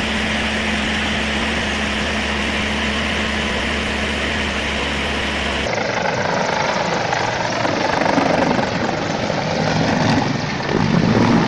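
Helicopter running with a steady drone of rotor and engine. About halfway through there is an abrupt cut to louder, rougher noise that swells several times, from another aircraft clip.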